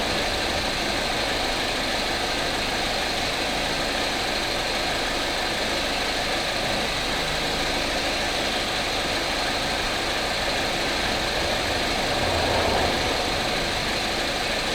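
Peugeot 408 THP's turbocharged petrol engine idling steadily, with a slight swell in level about twelve seconds in.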